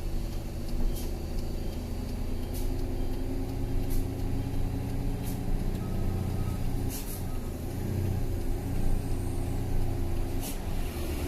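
Truck engine running in a low gear on a steep downhill, holding the truck back, with a steady note that shifts about seven seconds in. A few sharp clicks come through every second or two.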